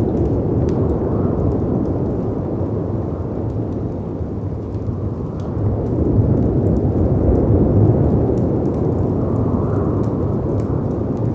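Storm ambience: a dense, low rush of howling wind and waves breaking on rocks that swells and eases, louder for a couple of seconds around the middle, with the scattered crackle and pop of a wood fire on top.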